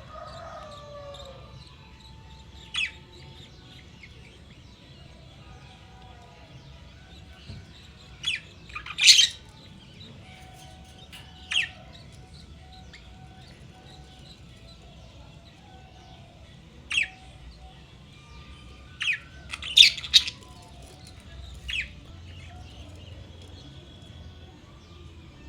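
Pet budgie giving short, sharp squawks now and then, about eight in all, some in quick pairs, with the loudest near the middle and about three-quarters through.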